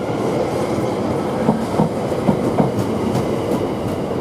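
London Overground Class 710 electric train moving through the station, its wheels clicking over the rail joints in repeated pairs over a steady rumble.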